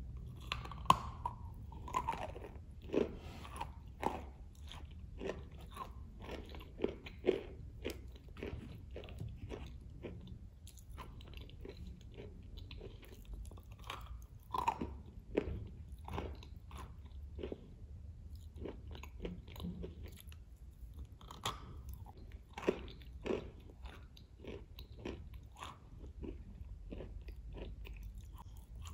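Close-up bites and chewing of a soaked 'Matryoshka' cookie dipped in whipped cream, with sharp crunches about every second, the loudest in the first few seconds and again around the middle.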